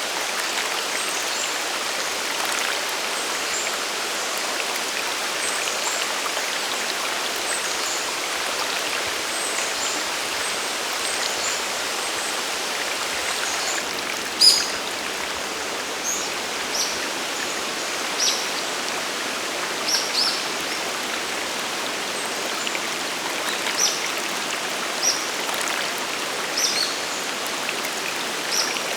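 Waterfall and mountain stream rushing steadily. Short, high bird chirps come through it, faint at first and then louder and more frequent in the second half.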